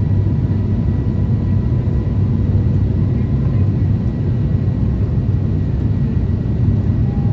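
Steady low rumble of an Airbus A350-1000 airliner, engine and airflow noise heard from inside the cabin, with faint steady hums.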